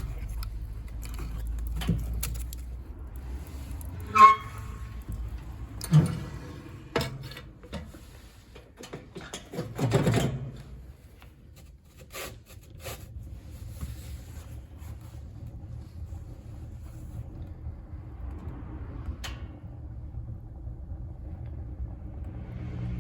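Wood stove being tended: scattered knocks and clanks of metal and wood, one with a short metallic ring about four seconds in and a longer clatter around ten seconds, over a steady low rumble.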